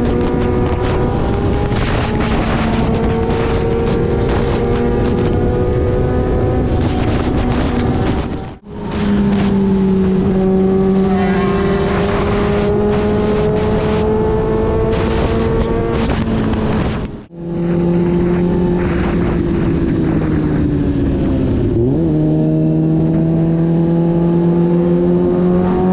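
Sport motorcycle engine running at steady road speed, its note holding mostly level with slow rises, over a constant rushing noise. The sound drops out abruptly twice, about a third and two-thirds of the way through. Near the end the engine note dips briefly and climbs again.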